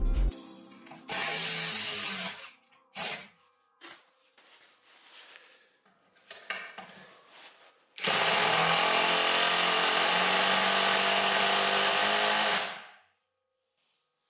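Parkside Performance PDSSAP 20-Li A1 cordless impact driver running without load: a short burst of the motor, a few small clicks, then a long, even, steady run of about four and a half seconds that winds down when the trigger is released.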